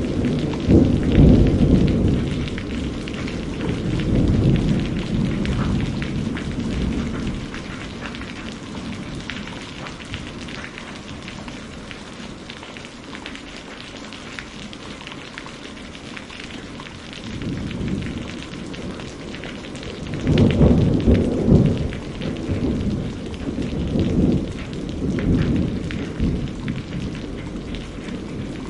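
Thunderstorm: steady rain patter with rolling thunder rumbling in the first few seconds, dying away, then rolling back in about two-thirds of the way through, loudest shortly after.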